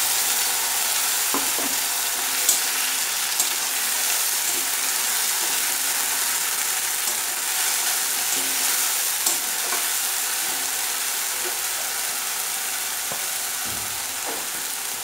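Ginger, onion and garlic paste sizzling in hot oil in a metal kadai, with browned onions and whole spices, stirred with a spatula that knocks against the pan a few times. The sizzle is a steady hiss that slowly eases as the paste fries.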